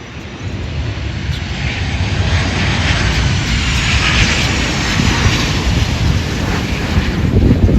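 An airliner's engines passing close, the noise building over the first few seconds and staying loud, with a faint falling pitch as it goes by. Heavy wind rumble on the microphone lies under it.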